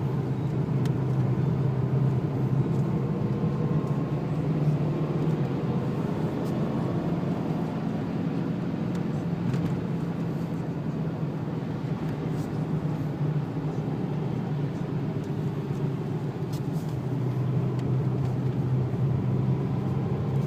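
Steady in-cabin drone of a Renault Laguna wagon's 2-litre turbo diesel engine under way, over a constant haze of tyre and road noise.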